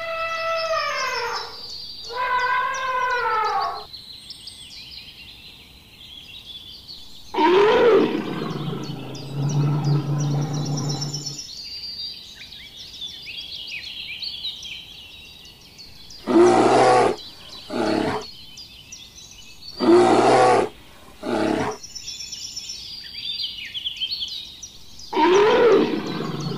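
An elephant trumpets twice near the start, each call rising and falling in pitch. From about 7 seconds in, deep rough roars come several times in short bursts, with birds chirping faintly in between.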